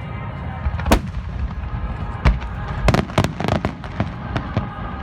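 Aerial fireworks bursting: a sharp bang about a second in, another a little after two seconds, then a quick run of cracks around three seconds and a few more bangs near the end.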